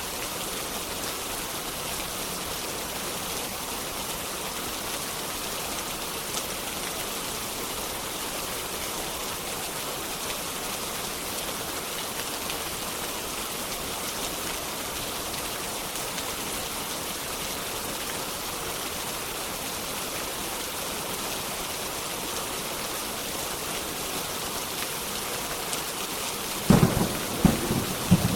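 Steady rain, then near the end a sudden loud clap of thunder in several quick peaks.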